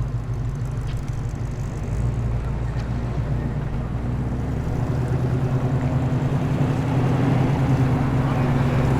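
Engines of performance cars rolling slowly past at low revs: a steady low rumble, with another engine note rising slightly and growing louder in the second half.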